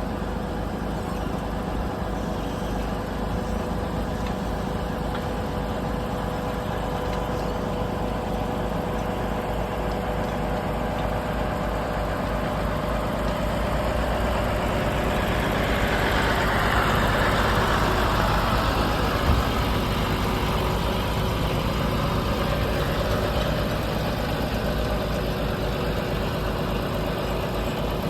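A vehicle engine idling steadily. A swell of louder noise comes through around the middle, with a single sharp knock just after.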